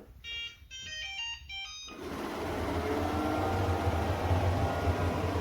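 Shark robot vacuum playing a short electronic start-up tune of beeps, then its suction motor and brushes start about two seconds in and keep running with a steady hum.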